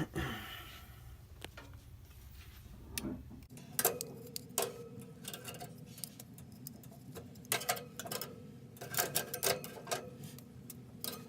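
Irregular light clicks and knocks of kitchen items being handled while chicken is laid out. A low background hum stops a few seconds in.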